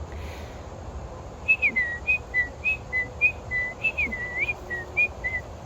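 A person whistling an imitation of an American robin's song: a string of short, separate phrases, alternating higher and lower notes, some sliding up or down, starting about a second and a half in.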